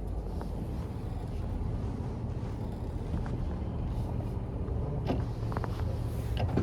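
Ram pickup truck's engine idling with a steady low rumble, heard from inside the cab.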